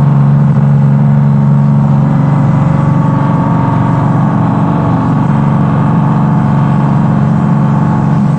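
Steady drone of running machinery: a low, even hum of several steady tones that hardly changes.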